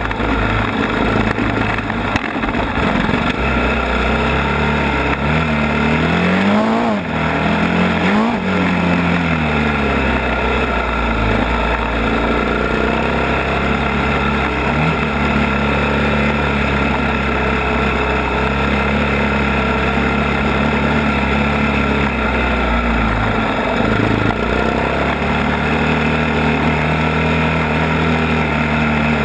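ATV engine running steadily on a trail ride, revving up and easing off twice about six to eight seconds in, with another brief dip in engine speed near the end.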